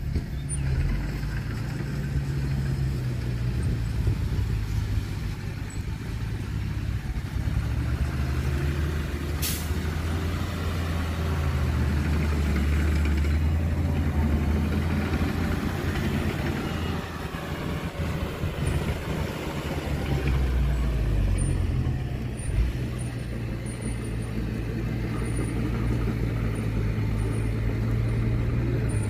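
Heavy diesel engines of dump trucks and a bulldozer at work, their pitch rising and falling as they rev and settle, with a brief sharp hiss about nine seconds in.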